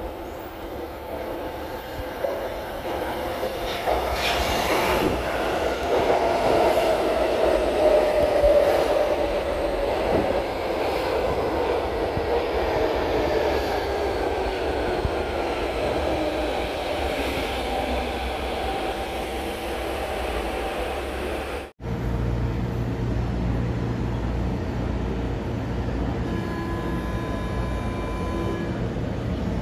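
Electric train pulling into a station: the running noise builds over several seconds, then a motor whine falls steadily in pitch as it slows. After a brief break, a stationary electric train hums steadily at the platform, with a short series of beeping tones near the end as its doors are about to close.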